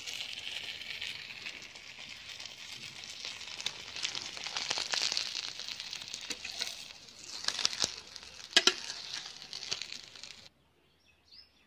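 Oil sizzling on a hot dosa griddle and charred banana-leaf fish parcels crackling as they are lifted off with a metal spatula, with a couple of sharp knocks about eight and a half seconds in. The sound cuts off abruptly shortly before the end.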